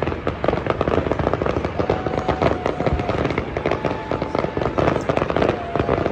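Aerial fireworks display: a dense run of shell bursts and crackling, many pops close together. A faint held tone sounds twice in the middle.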